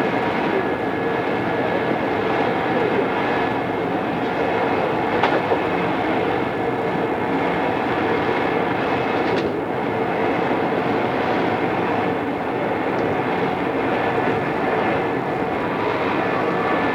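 Odakyu 2600 series electric train running, heard from on board: steady rolling noise with a faint steady hum from the motors. Two brief sharp clicks stand out, about five seconds in and again about nine and a half seconds in.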